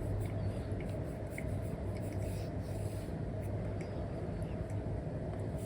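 Apple Pencil 2 with an Elecom nib scratching and tapping on a paper-like screen film over an iPad: short drawing strokes and small light ticks, over a steady low hum.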